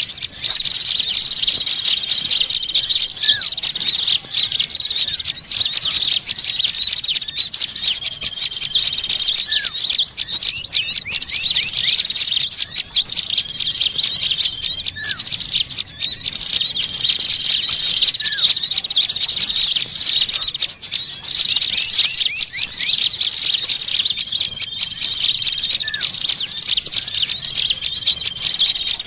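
A crowd of small birds chirping and chattering at once in a dense, noisy, agitated chorus: a bird-lure recording of small birds' angry calls. A short lower note drops in every few seconds.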